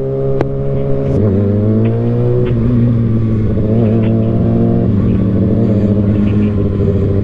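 Kawasaki Ninja ZX-6R 636's inline-four engine running under way, dropping in pitch at upshifts about a second in and again near two and a half seconds, climbing between them, then holding a steady cruise.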